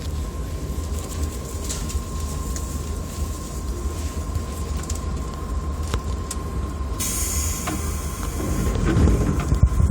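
Interior of a JR Yokohama Line 205-series electric train: a steady low rumble with a thin, steady whine and light clicks. A short hiss of air comes about seven seconds in, and the rumble grows louder near the end.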